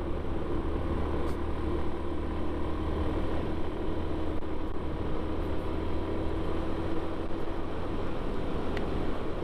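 Yamaha Vino 125 scooter's single-cylinder four-stroke engine running steadily while riding at an even speed, with a steady low hum and road and wind noise.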